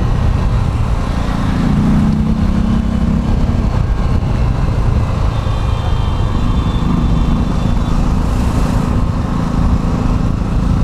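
A vehicle's engine pulling away from a traffic light just turned green, its hum rising during the first few seconds, then running steadily along with road and traffic noise.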